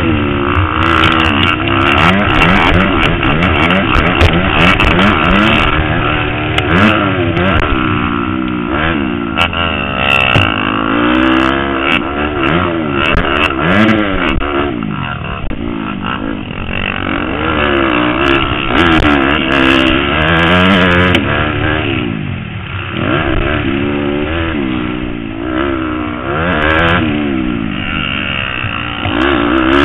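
Motocross motorcycle engine being ridden hard, revving up and dropping back again and again as the rider accelerates, shifts and brakes around the track.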